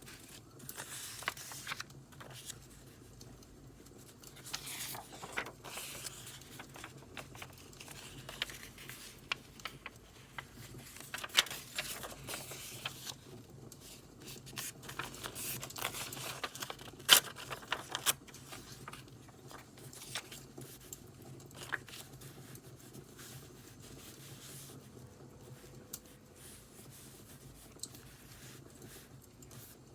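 Paper rustling, crinkling and scraping in irregular bursts as journal paper and stickers are handled, with scattered sharp clicks and pops of burning firewood crackling; one louder snap about two-thirds of the way through.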